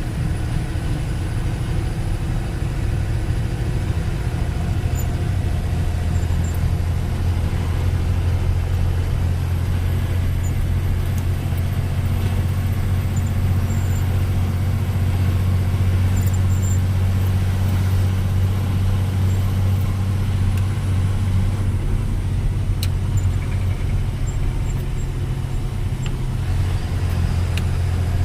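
Steady low drone of a heavy road vehicle's engine running while on the move.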